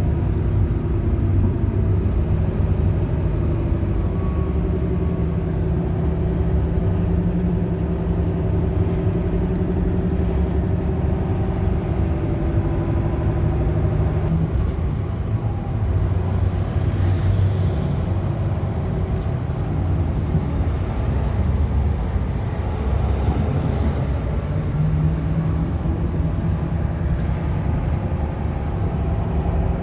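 Bus engine and road noise heard from inside the bus: a steady low rumble with a droning engine note that changes pitch a few times.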